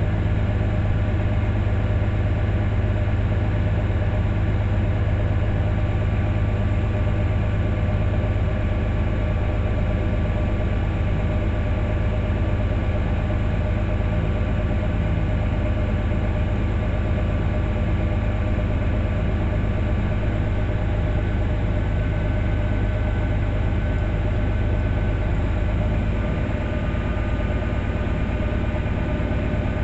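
Steady drone of a heavy engine running at idle, with a strong low hum and several constant tones above it that do not change in pitch.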